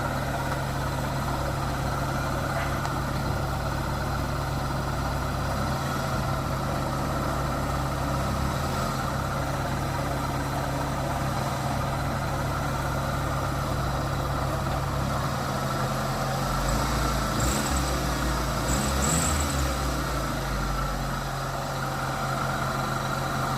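An engine idling steadily, with a deeper, slightly louder rumble from about 16 to 21 seconds in.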